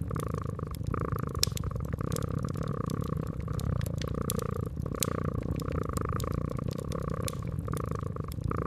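Domestic cat purring steadily, its purr swelling and fading every second or so, with the sharp crackles and pops of a wood fire scattered throughout.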